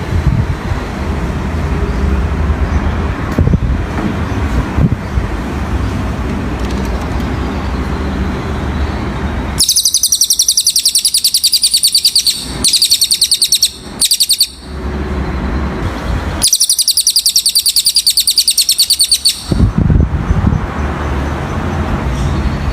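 A cililin bird sings a high, very fast, evenly pulsed trill in several bursts of one to three seconds, starting about ten seconds in. Before and after the trills there is a low road-traffic rumble.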